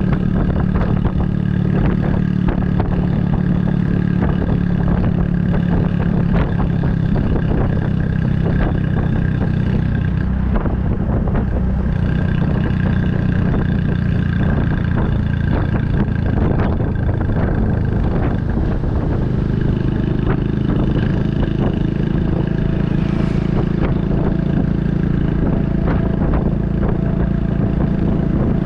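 Honda Super Cub 110's air-cooled single-cylinder four-stroke engine running through an aftermarket Kitaco mini Cabton muffler, heard from the bike while riding. It runs steadily, with a few small changes in engine speed. The exhaust note is louder than stock, since the muffler has been swapped.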